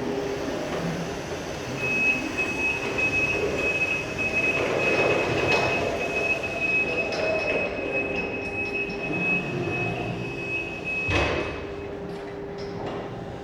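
Electric reach truck at work: a steady high-pitched tone from its drive or hydraulics sounds over a mechanical rumble for most of the stretch, and a sharp knock comes about eleven seconds in.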